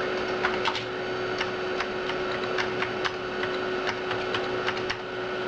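Computer keyboard keys clicking irregularly as a command is typed, over a steady hum from the Amiga 4000's hard drive and power supply.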